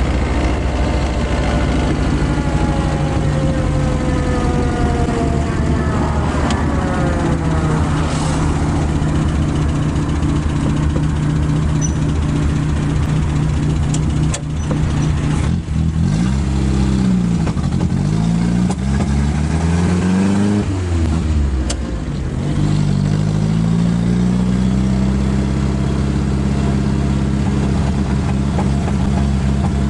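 Citroën Traction 11CV four-cylinder engine with twin carburettors running under way in a 1936 Georges Irat MDS, heard from the open cockpit. A falling whine passes in the first few seconds. About halfway through, the engine note drops and then climbs again as the car slows and picks up speed, settling into a steady higher note.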